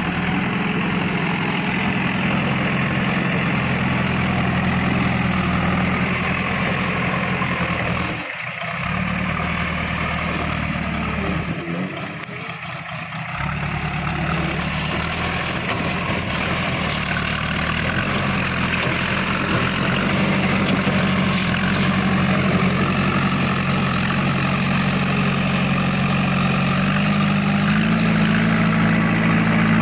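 Heavy diesel engine running steadily at idle, its note dipping briefly twice and speeding up slightly near the end.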